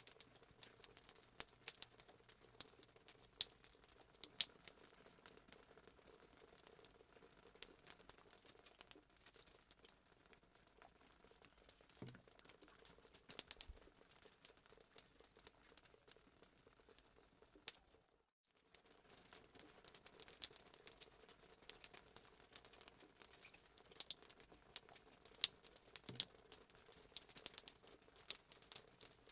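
Fireplace sound effect: a wood fire crackling with many irregular small pops and snaps. It cuts out for a moment about two-thirds of the way through, then the crackling resumes.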